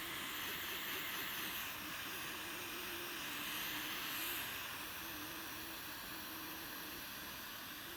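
Small torch lighter's flame hissing steadily, held on the crud-caked mounting rods of a seized engine to heat them loose.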